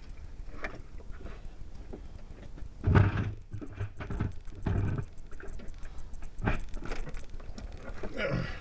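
Small metal hand tools (socket, extension and ratchet) clinking and rattling as they are worked against the truck's firewall, with two louder dull knocks about three and nearly five seconds in.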